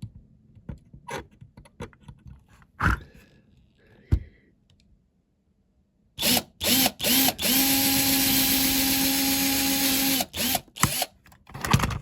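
Small electric drill drilling out a rivet on a diecast toy's baseplate: three short bursts of the motor, then a steady run of about three seconds, then more short bursts. Light clicks and knocks of the model being handled come before it.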